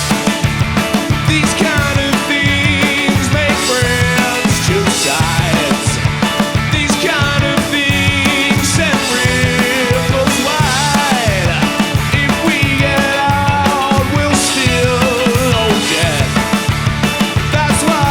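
Rock band playing live, an instrumental break: a steady drum beat and bass under a lead line of bending, sliding notes.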